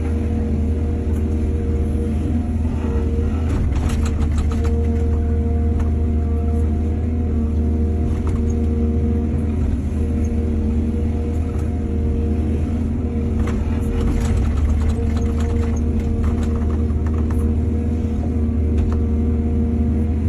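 Heavy diesel engine of an excavator running steadily with a deep rumble. Bursts of short clattering come about four seconds in and again from about thirteen to seventeen seconds in.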